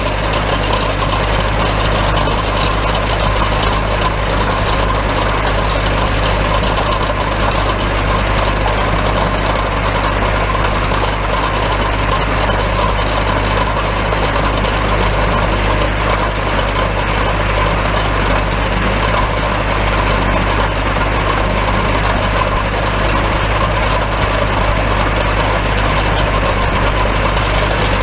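Compact diesel tractor engine running steadily while driving a New Holland 254 tedder-rake through the hay.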